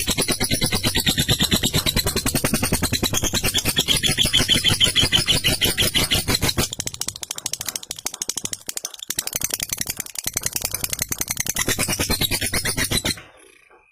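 Lovebird giving a long 'ngekek' call: a fast, continuous rattling chatter of rapid repeated notes that stops abruptly near the end.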